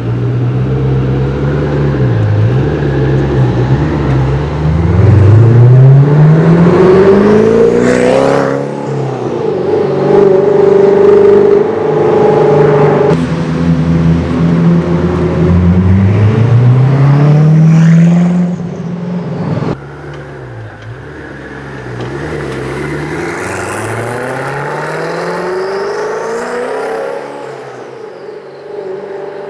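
Koenigsegg Agera R's twin-turbo V8 accelerating hard. Its pitch climbs steeply, drops about halfway through and climbs again, then cuts off sharply to a quieter engine sound with a few rises and falls in pitch.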